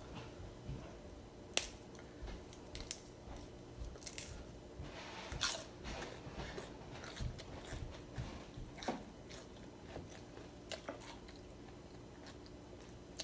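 A person chewing and biting food close to the microphone, with scattered crisp crunches and clicks, as from raw leafy greens and vegetables. A faint steady hum lies underneath.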